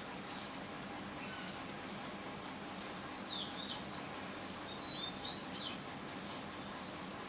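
A songbird chirping in the background: a quick run of short whistled notes, each rising and falling, about midway through. A faint high pulsing trill, about three pulses a second, runs under it.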